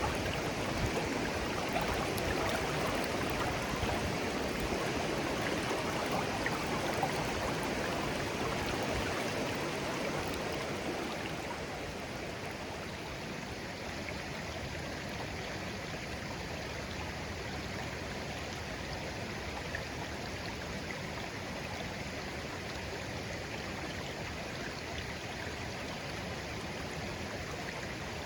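Babbling brook: clear, shallow stream water murmuring steadily. The sound eases a little and grows quieter about eleven to thirteen seconds in, then stays even.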